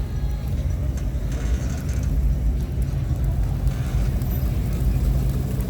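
Classic car engine running with a low, steady rumble.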